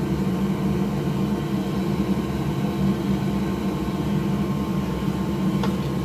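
Steady whir and hum of a running electric fan or blower, even throughout with no change in pitch.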